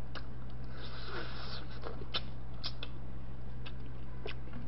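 Mouth noises of chewing boiled chicken: a scattering of soft wet clicks and smacks, one every second or so, over a steady low electrical hum.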